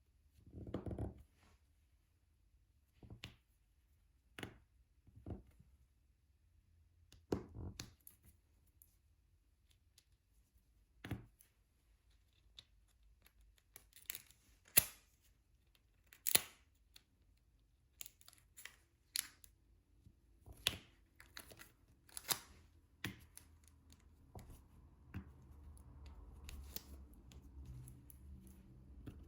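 Diamond painting tools at work: irregular sharp clicks and taps of a drill pen and resin drills against the tray and the sticky canvas, spaced a second or two apart, one noticeably louder about halfway through. A faint low hum comes in near the end.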